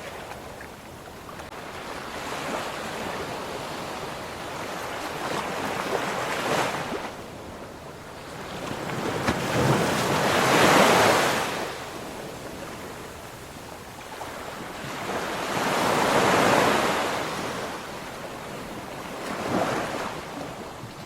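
Ocean waves breaking and washing onto a shore, each one a surge of hiss that swells and fades; the two largest come about 10 and 16 seconds in, with a smaller one near the end.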